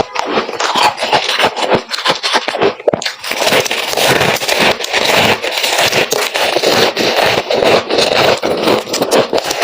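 Freezer frost being crunched and scraped: a dense, unbroken run of loud crackly crunches.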